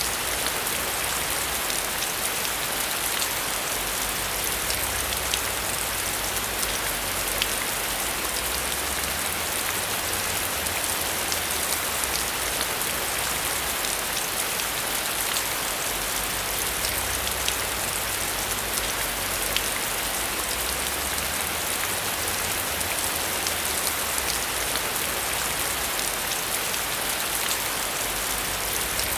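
Heavy rain falling steadily on a metal roof: a constant hiss with many individual drops ticking sharply through it.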